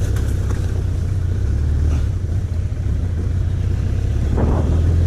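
Motorcycle engine running steadily at cruising speed under the wind noise of riding.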